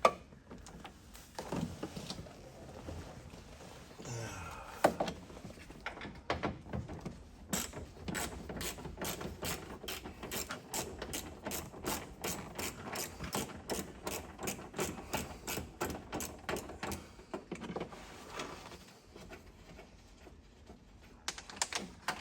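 Hand socket ratchet clicking in a long steady run, about four or five clicks a second, as a small bolt is turned, with a few scattered tool knocks before and after.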